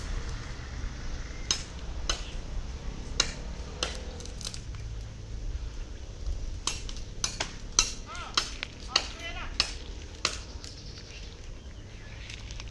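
Scattered short, sharp bird chirps that come thicker from about six seconds in, over a low rumble of wind on the microphone.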